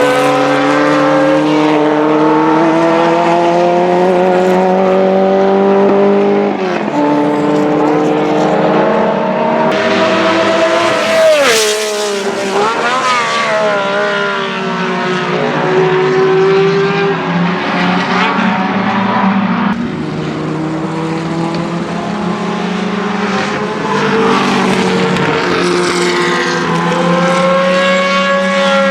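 Ferrari 1512's 1.5-litre Tipo 207 flat-12 racing engine at high revs, its note climbing through the gears with an upshift about a quarter of the way in. Near the middle the car passes close by with a sharp drop in pitch, and the engine note then climbs again as it accelerates away.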